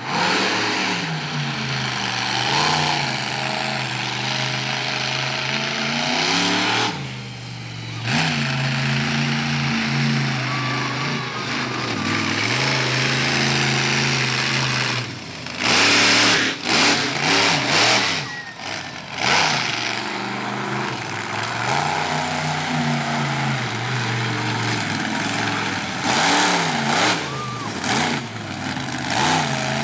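Monster truck engine revving hard again and again, its pitch climbing and falling, with a few sharp drops and very loud surges in the middle.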